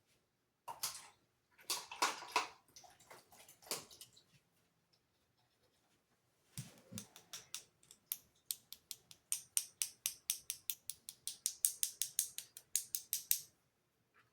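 Paintbrush worked against the painting surface: a few scrubbing strokes, then a quick run of dabbing taps, about five a second, growing louder before stopping near the end.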